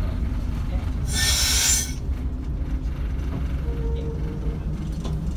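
Cab of a Class 121 diesel railcar on the move: a steady low rumble of the engine and running gear, cut through about a second in by a loud hiss that lasts just under a second.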